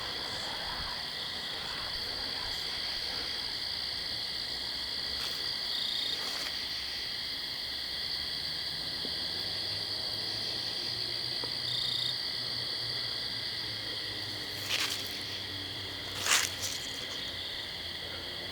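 Steady night-time chorus of small calling animals, a continuous high trilling. Two sharp cracks sound about a second and a half apart near the end, the second the loudest.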